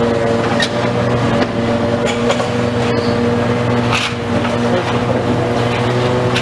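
Engine of heavy demolition machinery running steadily under load, with scattered sharp cracks and knocks of structure and debris breaking.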